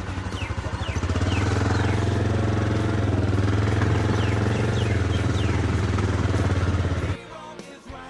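Motorcycle engine running, growing louder about a second in and then holding a steady pulsing note, before cutting off abruptly near the end.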